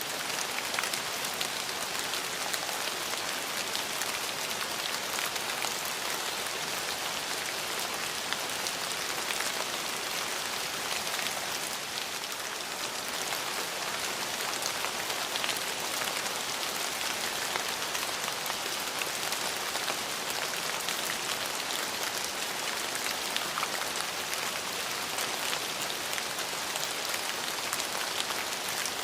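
Steady rain falling on surfaces, an even hiss peppered with many small drop ticks.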